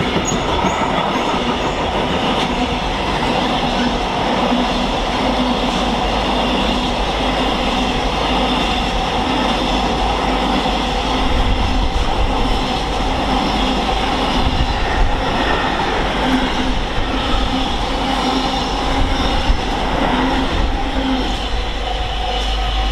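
Freight train hauled by a Class 66 diesel locomotive passing at length, its wagons rolling by in a steady, continuous rumble and rattle on the rails.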